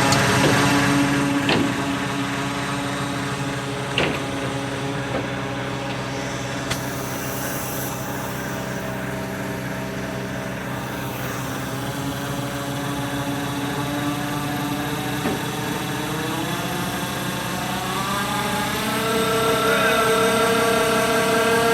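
Truck engine running steadily, then speeding up over a few seconds and holding at the higher speed. Two sharp clicks sound in the first few seconds.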